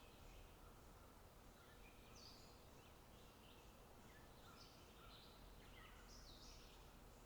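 Faint outdoor ambience: small birds giving short chirping notes scattered throughout, over a low steady background hiss and rumble.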